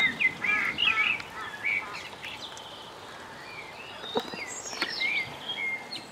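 Birds calling outdoors: a quick run of short chirps in the first two seconds, then more whistled, gliding chirps about four to five seconds in.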